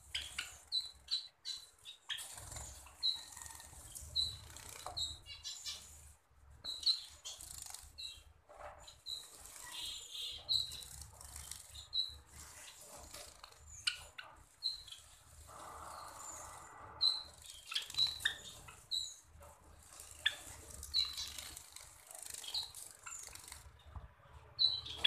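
Java sparrows chirping, short high chip notes repeated over and over, with wing flapping and rustling between the calls.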